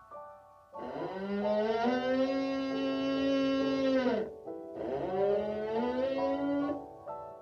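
Two long, drawn-out farm animal calls, each held steady and then falling in pitch at the end, with short pauses between them.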